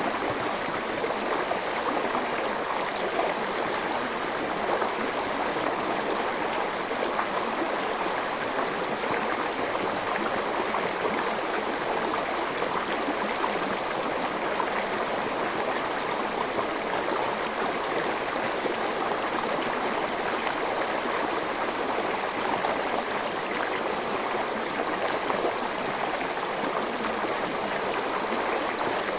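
Forest stream flowing steadily over rocks, a constant rush of water with gurgling.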